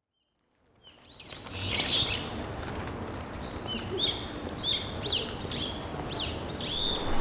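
Small birds chirping and calling, repeated quick notes that sweep downward in pitch, over a low steady background rumble. The sound fades in about a second in.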